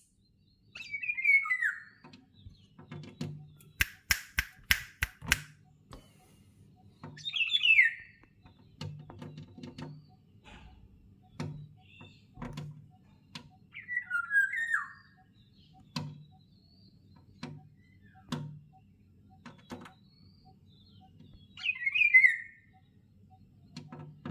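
A bird giving a short call that slides down in pitch, four times about seven seconds apart. Scattered clicks run between the calls, with a quick run of loud sharp clicks about four seconds in.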